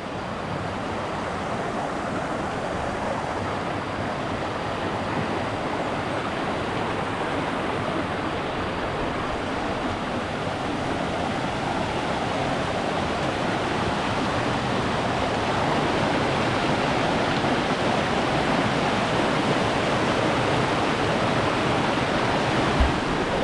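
A small waterfall rushes steadily, a continuous noise of falling water that grows a little louder about halfway through.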